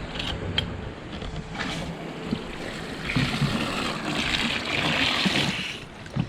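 Water pouring and splashing into a container: a steady hiss that starts about three seconds in and stops just before the end, after a couple of light clicks early on.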